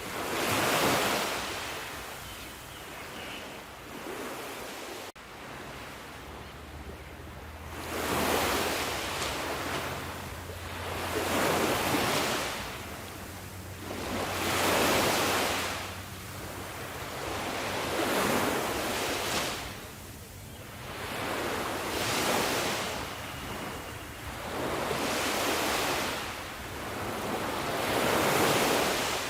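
Sea waves breaking and washing on a shore, the surf swelling and fading every three to four seconds, with a brief dip about five seconds in.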